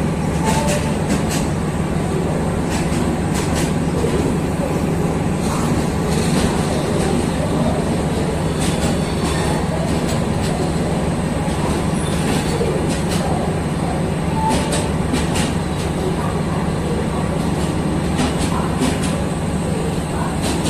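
Indian Railways express train at the platform: a steady low mechanical hum with scattered sharp metallic clicks.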